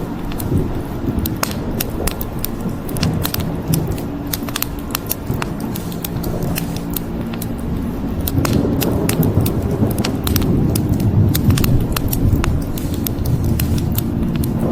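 Wood fire crackling, with many sharp, irregular pops and snaps over a low rumble that swells about halfway through.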